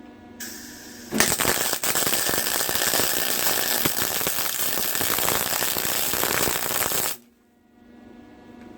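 Electric welding arc crackling steadily for about six seconds while a bead is run, starting just over a second in after a brief hiss and cutting off sharply near the end. The weld is around a grade 8 bolt that is melting easily under the arc.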